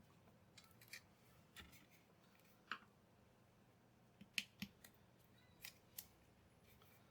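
Scattered light clicks and taps of small objects being handled, about ten of them at uneven intervals, against a quiet background.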